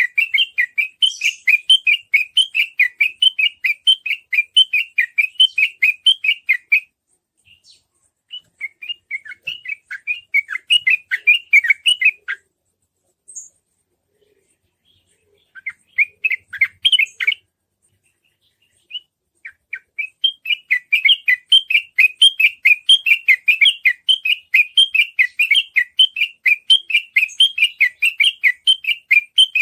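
Yellow-vented bulbul (trucukan) singing its rapid rolling 'ropel' song, long runs of quick repeated chirping notes. A long run breaks off after about a quarter of the way, a few short bursts follow with pauses between, and a second long run starts about two-thirds through.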